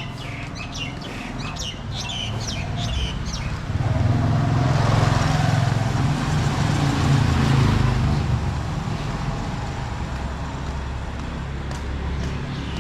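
Street sounds: birds chirping over the first few seconds, then a motor vehicle passes close by, loudest about four to eight seconds in, leaving a steady low engine hum after.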